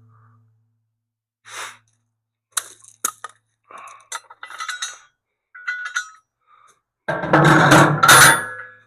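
Metal parts of a bolt-on grab-hook plate clinking and tapping against a steel loader bucket while it is being fitted, in scattered short knocks. Near the end a louder, rougher metal noise lasts about a second and a half.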